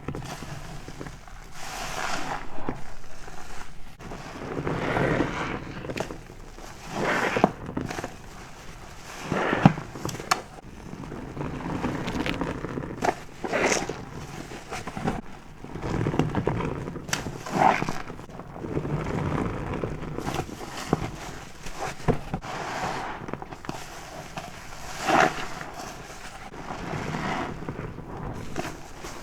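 A soapy car wash sponge being squeezed and released over and over, with wet squelching and crackling of foam bubbles every second or two.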